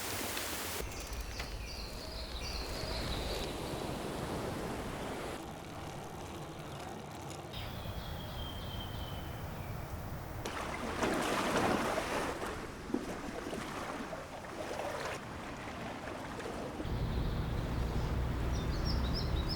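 A sequence of short seaside recordings cut one after another: waves washing in and wind on the microphone, with faint short high chirps in some of the cuts and a louder rush of surf about halfway through.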